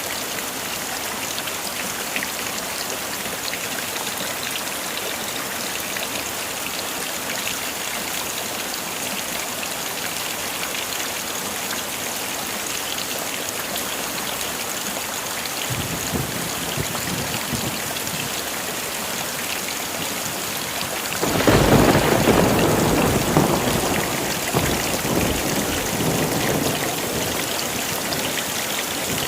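Heavy rain falling in a steady hiss, with a roll of thunder: a faint low rumble from about 16 s, then a louder crack and rumble about 21 s in that slowly dies away.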